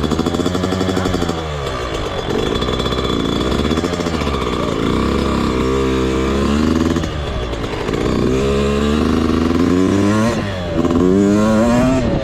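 Motocross bike engine being ridden hard, its note repeatedly climbing as it accelerates and dropping back off the throttle, several rising sweeps in a row.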